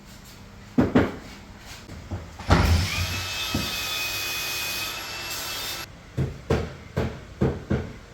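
Circular saw starting up with a rising whine and cutting for about three seconds, then stopping suddenly. A couple of sharp knocks come before it and a quick run of five knocks after.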